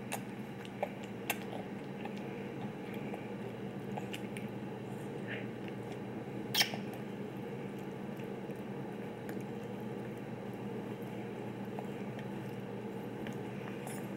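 Small eating noises from a baby feeding himself: a few faint clicks and smacks over a steady low room hum, with one sharper click about halfway through.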